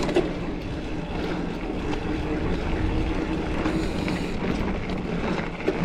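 Mountain bike rolling along a dirt trail: tyre and wind noise on the camera microphone, with a few sharp clicks and rattles from the bike.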